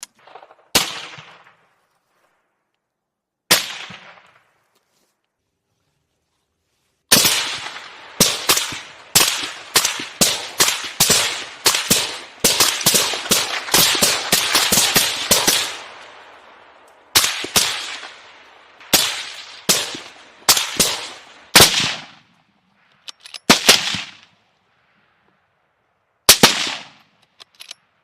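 A series of sharp bangs, each with an echoing tail. Two single bangs come early, then after a few seconds of silence a rapid string of bangs runs for about nine seconds, followed by scattered single and paired bangs.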